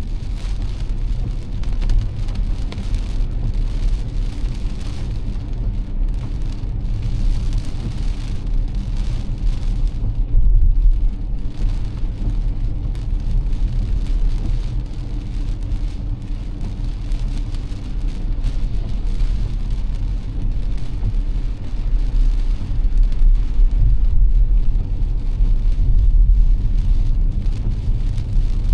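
Car driving through heavy rain: a steady low road and engine rumble with the hiss of rain and wet tyres on the road, rising and falling a little.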